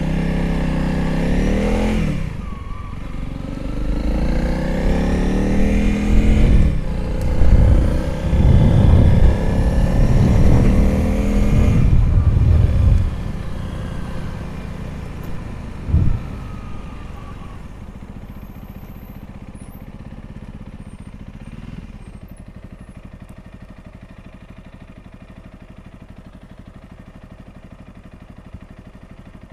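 Honda CRF300L's single-cylinder engine pulling away from a standstill, rising in pitch and dropping back at each upshift through the first gears, then easing off and settling to a quiet, steady idle for the second half. There is a brief thump about halfway through.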